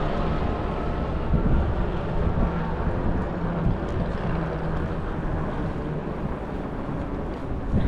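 Wind rushing over the microphone of a camera on a moving e-bike, mixed with a low, steady engine drone.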